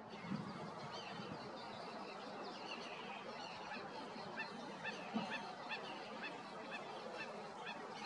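Birds calling over a steady background hiss. Rapid short high chirps come several a second from about three seconds in, and there are low honk-like calls near the start and again about five seconds in.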